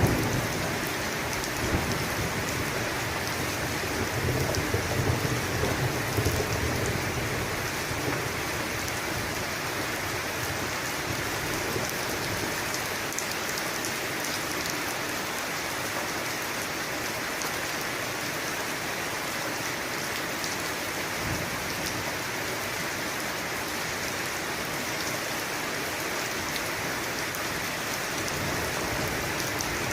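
Steady rain on a surface, with the low rumble of a thunderclap dying away over the first several seconds.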